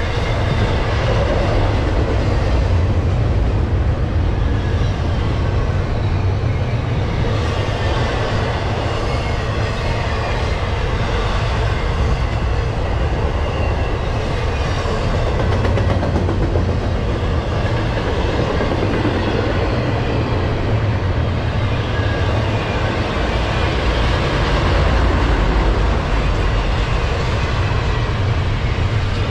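Double-stack intermodal freight train rolling past at close range: the steady rumble and clatter of well-car wheels on the rails, continuous throughout.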